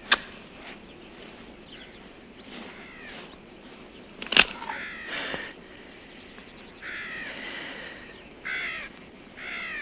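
A bird calling several times in the second half, with two sharp knocks, one at the start and one just before the calls begin.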